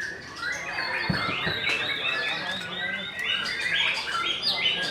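Many caged songbirds singing at once, a dense chorus of overlapping chirps, whistles and trills. A low thump comes about a second in.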